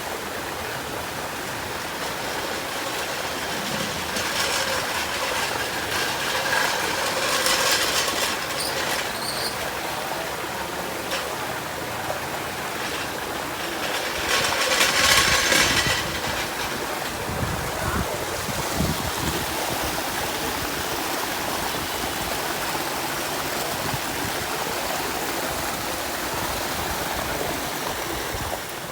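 Steady rushing noise of floodwater being pumped out of a flooded basement: pump running and water gushing. Two louder, splashier surges come through, one around five to nine seconds in and a stronger one around fifteen seconds in.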